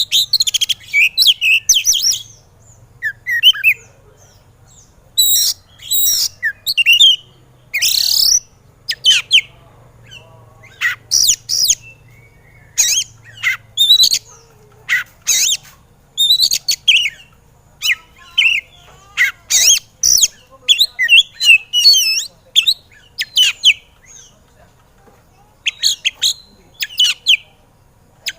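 Oriental magpie-robin (kacer) singing in its agitated, 'emosi' mode: loud, varied bursts of sharp chirps and whistled notes, each phrase a second or so long, separated by short pauses, over a faint low hum.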